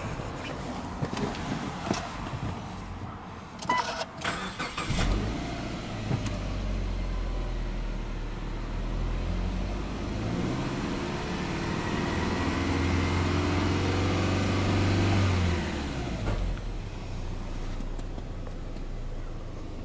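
Subaru Legacy 2.5GT's turbocharged EJ25 flat-four starting after a few clicks about four seconds in, then running at a steady fast idle. The engine note settles lower and quieter near the end.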